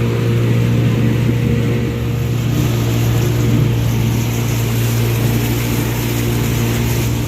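Motorboat engine running steadily under way, a low even drone with a rushing hiss over it that grows a little stronger about two and a half seconds in.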